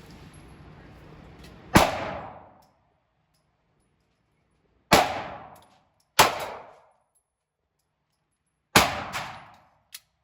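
Gunshots at a shooting range: about five single shots at uneven intervals, the last two close together, each followed by a short echo.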